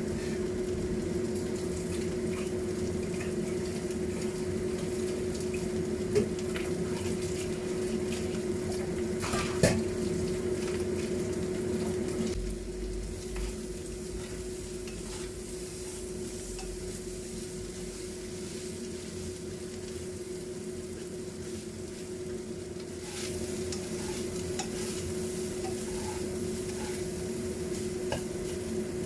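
Oil sizzling around rolls shallow-frying in a pan, with a spatula stirring and scraping rice in a second pan and knocking sharply against it twice, about 6 and 10 seconds in. A steady hum runs underneath.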